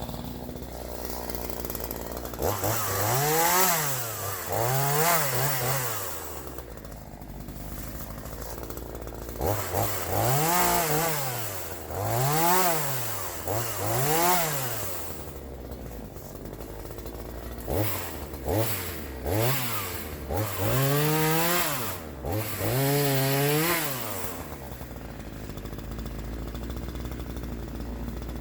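Troy-Bilt TB4218 42cc two-stroke chainsaw idling, then revved up and let back down again and again in three runs of throttle blips, settling back to idle between them.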